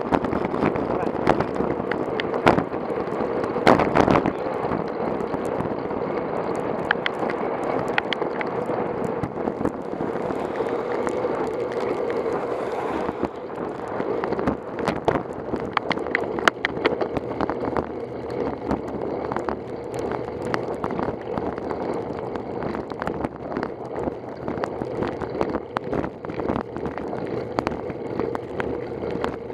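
Riding noise from a bicycle on the road, picked up by a camera on the bike or rider: a steady rush of road and wind noise with frequent knocks and clicks from bumps and rattles.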